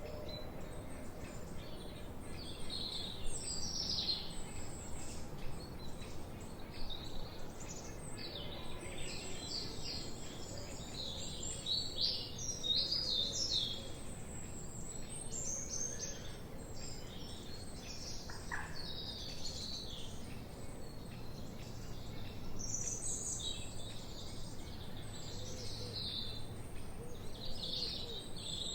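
Several songbirds chirping and singing together: many short, high chirps and trills overlapping throughout, over a steady background hiss.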